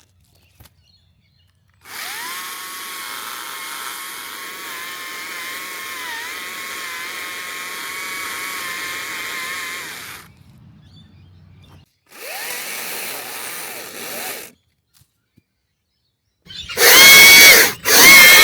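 Chainsaw cutting into a small tree trunk during felling: a steady high whine that spins up, runs for about eight seconds and stops, a short second run, then a much louder run near the end.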